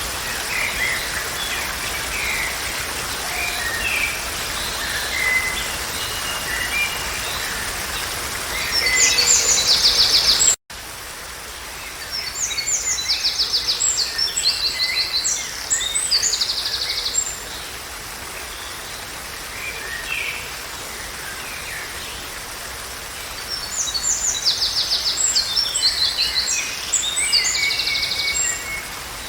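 Birds singing and chirping over a steady background hiss, with three longer bursts of rapid, high trilled song. The sound drops out for an instant a little over a third of the way in.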